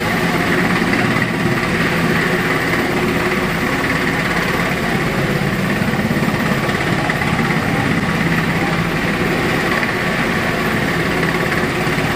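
Helicopter running steadily, a continuous engine and rotor noise with faint fast low pulsing, heard through a glass door.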